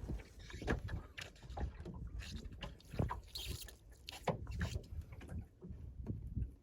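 Water lapping and slapping against the hull of a small sailing dinghy under way, with irregular light knocks and a low wind rumble on the microphone. A brief splashy hiss comes about three and a half seconds in.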